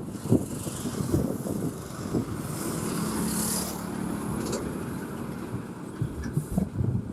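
Road traffic with loaded trucks driving past: a continuous low engine and tyre rumble with scattered knocks, and a brief hiss around three seconds in.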